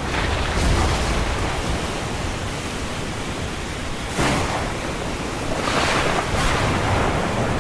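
Ocean surf: a steady wash of breaking waves, swelling as waves break about half a second in, around four seconds, and again around six seconds.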